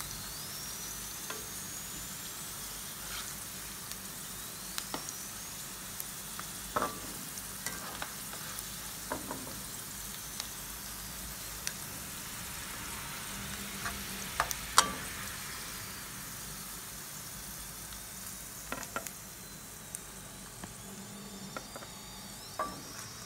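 Chicken breast pieces frying in rosemary-infused coconut oil in a pan, a steady sizzle, with scattered sharp clicks as a metal spatula lifts the pieces out of the oil.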